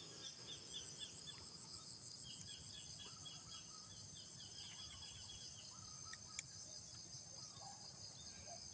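Steady high-pitched drone of insects in the forest, with faint short repeated chirps over it.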